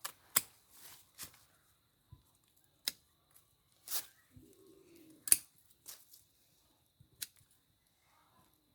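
A series of about six sharp, irregularly spaced clicks or snips, the loudest a little over five seconds in, with a brief low hum-like sound just before it.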